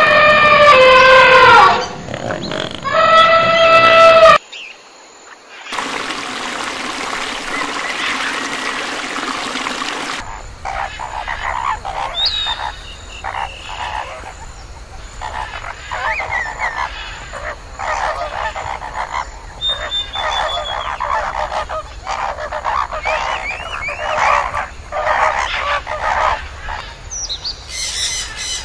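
An Asian elephant trumpets twice, loud calls that fall in pitch, followed by a few seconds of steady rushing noise. From about ten seconds in, a flock of greater flamingos calls without a break, a dense chatter of short honking calls.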